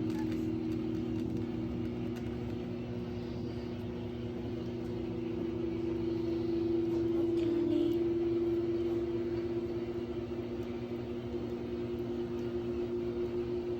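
A steady mechanical hum holding two low tones, swelling slightly in the middle.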